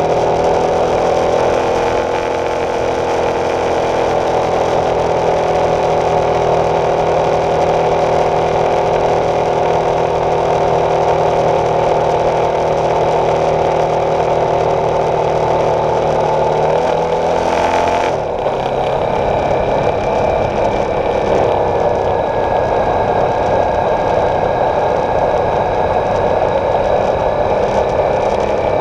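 Honda CB300F's single-cylinder engine running at riding speed, with wind rush over the bike. The engine note holds steady, then shifts about two-thirds of the way through and settles on a new steady note.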